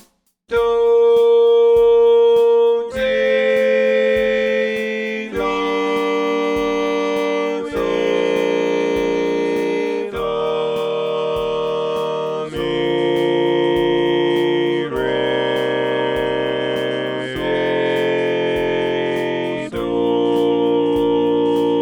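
A four-part harmony chord sequence: sustained chords, each held about two and a half seconds before moving to the next, over a steady low click beat of roughly two a second.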